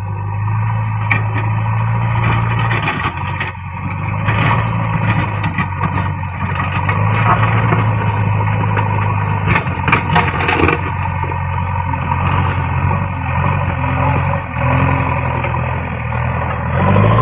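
JCB backhoe loader's diesel engine running steadily as it works, with scattered short knocks and scrapes, most of them around the middle.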